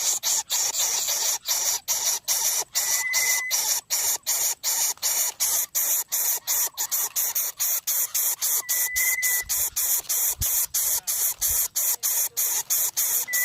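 Greater coucal nestlings hissing and rasping in a fast, pulsing rhythm of about three pulses a second. A short, level whistle sounds twice, about three seconds in and again near nine seconds.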